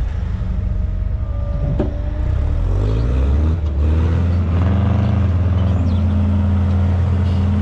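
A vehicle engine runs, then revs up about three seconds in and holds at the higher speed.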